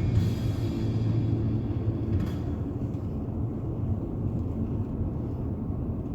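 Steady low rumble of a car driving on a snow-covered road on Kapsen Icemax RW501 winter tyres, with background music fading out about a second in.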